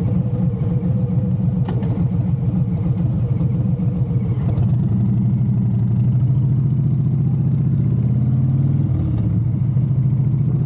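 Motorcycle engine running while riding. Its pitch climbs steadily for a few seconds as the bike accelerates, then dips briefly and levels off near the end.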